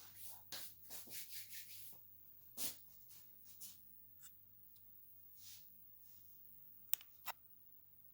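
Short scratchy strokes of a brush on a painting surface, a quick run of them in the first two seconds, then scattered single strokes. Two sharp clicks about seven seconds in.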